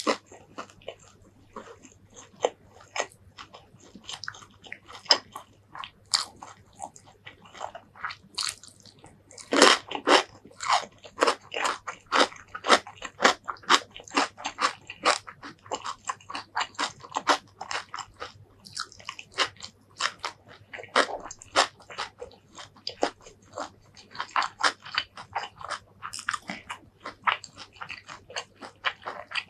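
Close-miked eating sounds: crisp bites and crunches of raw vegetables and fried fish eaten with rice, mixed with wet chewing, coming thick and irregular, with the loudest run of crunches about ten seconds in.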